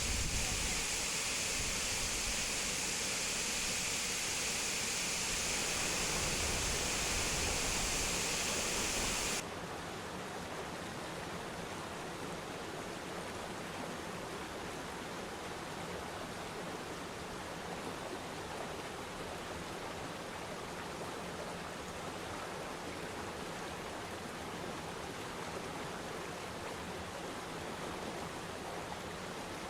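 Waterfall water rushing steadily. It is louder and hissier at first, with a low rumble, then about nine seconds in it drops suddenly to a quieter, even rush.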